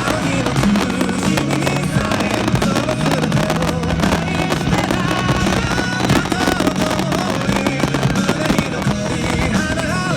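Fireworks bursting and crackling in quick succession over loud music playing through the show's loudspeakers, with a stepping bass line under it.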